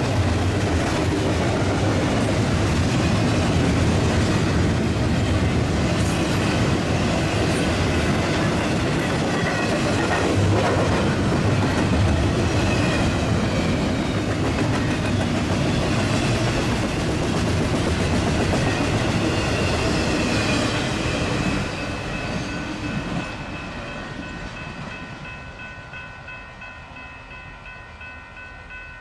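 Union Pacific freight train cars rolling past, with a rumble and wheel clatter over the rails. About two-thirds of the way through the rumble drops off as the end of the train passes, and the sound fades away, leaving a few steady high tones.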